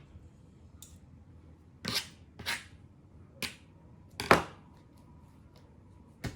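Kitchen work noises while preparing raw chicken: about six separate sharp knocks and clicks, the loudest about four seconds in.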